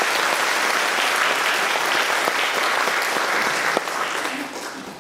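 Concert audience applauding, the clapping steady and then dying away over the last second or so.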